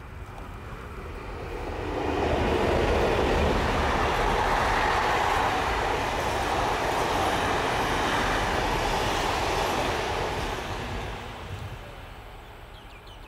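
Passenger train of heritage carriages passing close by: the rolling rumble of wheels on rails builds over the first two seconds, stays loud, then fades away after about ten seconds as the train recedes.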